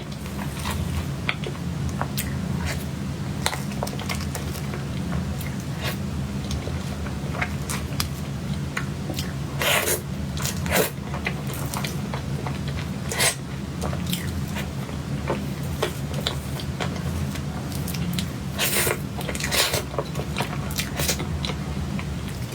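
Close-miked eating sounds of cake being chewed: soft wet clicks and smacks of the mouth, with a few louder bursts now and then.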